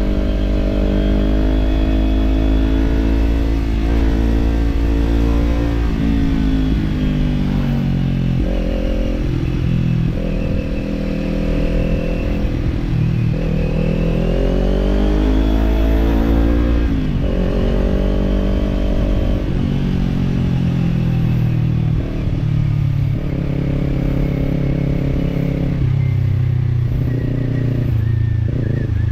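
Kawasaki parallel-twin motorcycle engine heard on board while riding: the pitch climbs under throttle and drops at gear changes several times, rises steeply about halfway through, and settles to a steadier cruise near the end.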